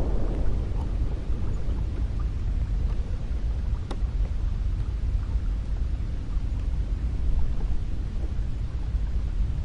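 Cold wind sound effect: a steady low rush of wind, with a gust dying away just after the start.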